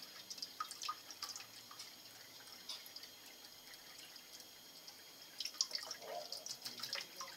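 Water dripping and splashing lightly in a sink where a kakariki parakeet is bathing: scattered small drips and splashes, most frequent about five and a half seconds in.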